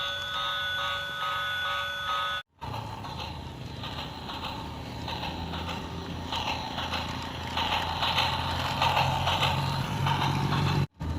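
Model electric train running on its track: a low motor hum with a steady patter of wheel clicks, growing louder from about six seconds in. Before that, for about two seconds, a set of steady electronic tones with a pulsing beat, cut off abruptly.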